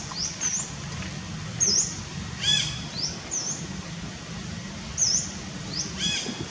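Small birds calling: a short, high, quick chirp repeated every second or two, and twice a lower arched call. A steady low hum runs underneath.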